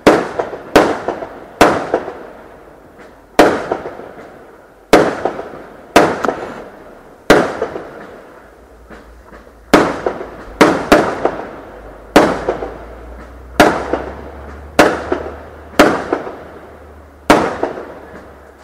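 Fireworks going off: about sixteen loud bangs at uneven intervals, roughly one a second, each trailing off in a fading crackle and echo.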